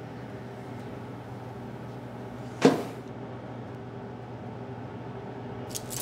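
Steady low electrical hum of room tone, broken about two and a half seconds in by one short, sharp knock, with a couple of faint clicks near the end.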